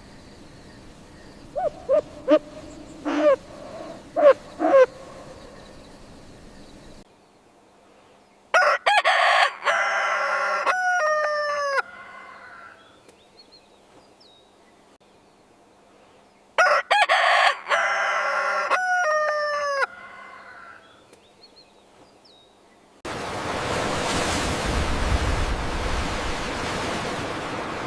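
A rooster crowing twice, each crow about three seconds long and falling in pitch at the end, after a few short calls. A steady noise takes over near the end.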